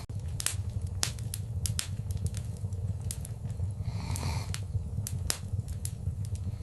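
Wood fire crackling in a fireplace: irregular sharp pops and snaps over a steady low rumble of burning, with a brief soft hiss about four seconds in.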